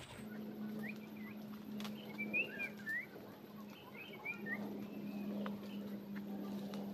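Small birds chirping: a scatter of short, quick chirp notes in the first half, over a faint steady low hum.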